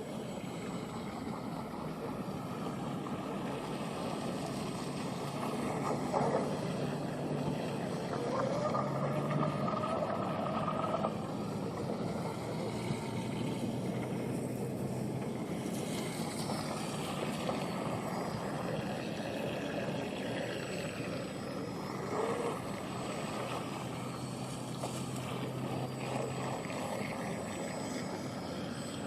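Electric RC tunnel-hull boat with a stock 1900kv Pro Boat motor running on the water: a steady whirring over water and wind noise, its pitch climbing around six seconds in and again around twenty-two seconds in as it speeds up.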